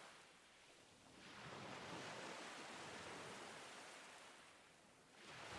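Faint ocean waves washing ashore. One wave swells in about a second in and slowly fades away, and the next begins to rise near the end.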